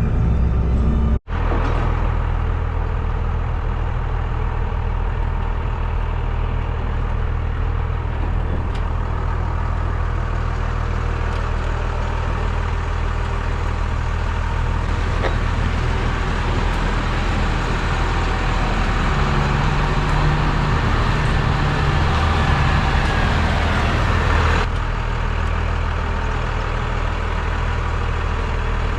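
Pressure washer engine running steadily under the hiss of the high-pressure water spray. The sound cuts out for an instant just over a second in, and the hiss drops back near the end.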